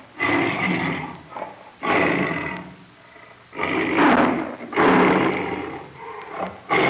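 An animal calling loudly over and over: about five harsh, roaring calls of roughly a second each, every one fading away before the next.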